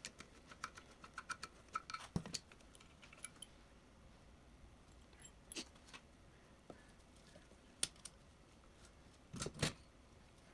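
Small metal engine parts and tools clinking and tapping as they are handled, in scattered light clicks with a few louder knocks later on.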